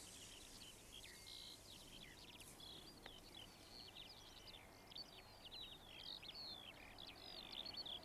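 Faint birdsong: many quick chirps and short whistled notes, rising and falling, over a low outdoor hiss.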